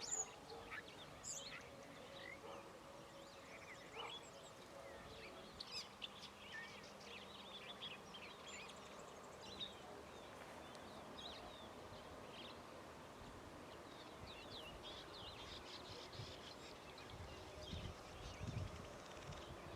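Several wild birds calling at once: a continual scatter of short, high chirps and whistles, faint over background hiss.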